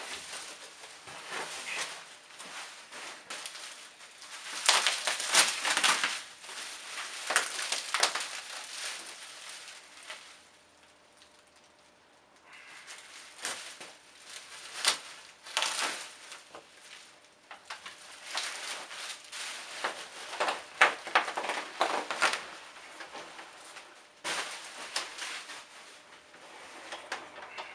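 Protective packaging being handled and pulled off during unboxing: irregular bursts of crinkling and rustling, with lulls about ten seconds in and again near seventeen seconds.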